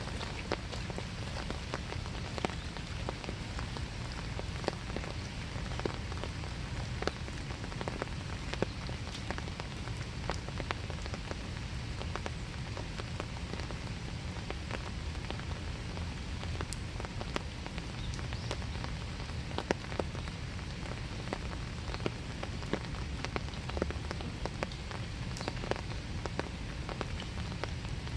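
Steady winter rain falling, with many individual drops ticking close by at irregular moments.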